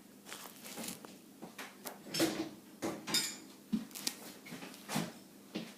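Dishes and cutlery clinking and knocking together as they are put into a dishwasher: a scattered run of short, light clinks and clacks.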